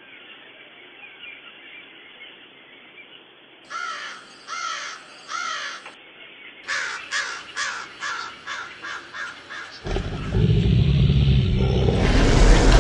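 Harsh bird calls, likely from a parrot: first three spaced calls, then a quicker run of about ten. A loud, rough noise takes over about ten seconds in.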